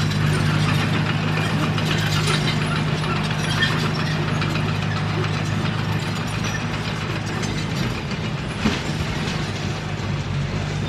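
Komatsu D21P bulldozer working: its diesel engine runs steadily under a dense clatter of steel crawler tracks, with one sharp knock near the end.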